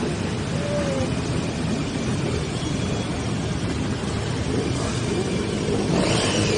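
Motorcycle riding along at a steady pace: the engine running under an even rush of noise, with no sharp revs or pitch changes.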